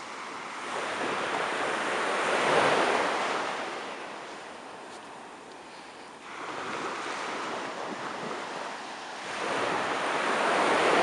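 Surf breaking and washing up a shore, coming in slow swells: one building to a peak about two and a half seconds in and fading, another rising sharply about six seconds in and peaking near the end.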